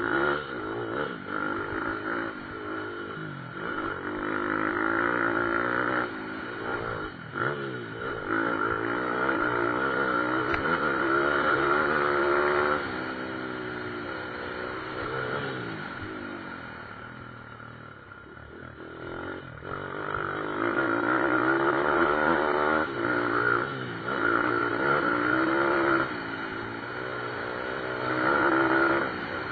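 Pit bike engines revving hard and shifting in pitch as riders race past, with several bikes heard at once. The sound fades back about two-thirds of the way through, then swells again as bikes come near.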